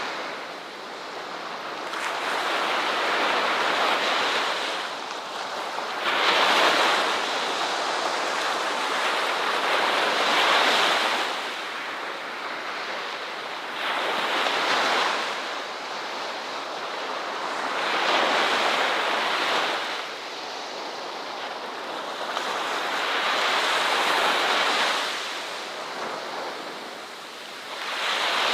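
Ocean waves breaking and washing in, one surge after another every few seconds, each swelling and then falling away.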